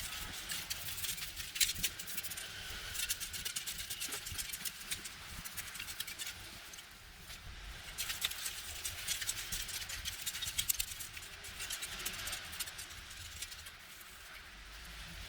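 Scratchy scrubbing against a hard surface in quick, dense strokes, heavier for the first few seconds and again from about eight to twelve seconds in.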